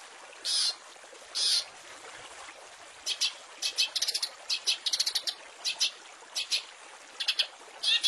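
Long-tailed shrike (cendet) singing: two short harsh notes about half a second and a second and a half in, then from about three seconds a rapid run of short, sharp notes and chatter. A steady hiss runs underneath.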